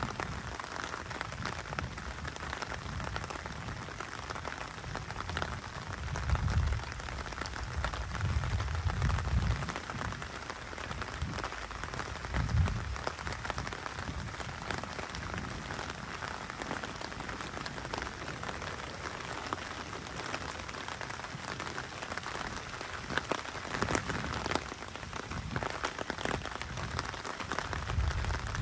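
Steady rain falling on a wet paved street, an even hiss of drops, with a few brief low rumbles now and then.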